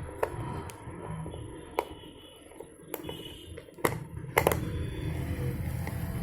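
Scattered sharp clicks and taps of a tool and hands on a plastic extension board as a nut is undone, with a louder double click about four and a half seconds in.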